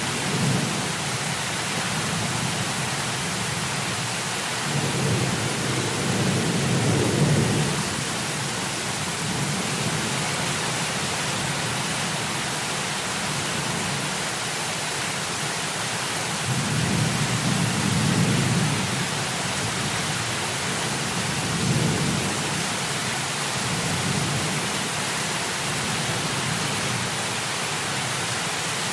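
Heavy rain falling in a steady hiss, with several low rolls of thunder rumbling through it. The longest rolls come about a quarter of the way in and again just past the middle, with a shorter one soon after.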